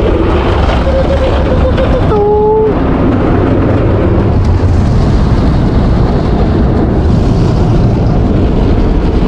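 Automatic tunnel car wash running over the car, heard from inside the cabin: a loud, steady rush of spraying water and machinery over a deep rumble. A brief pitched note sounds about two seconds in.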